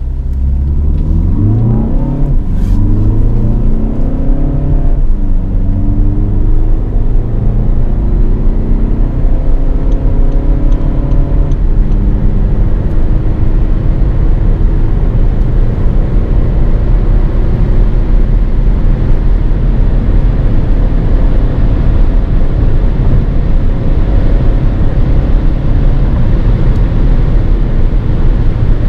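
2016 VW Passat accelerating hard through the gears. The engine note climbs and drops back at gear changes about 2 and 5 seconds in, then climbs more slowly. After that, steady road and wind noise grows to cover the engine at high speed.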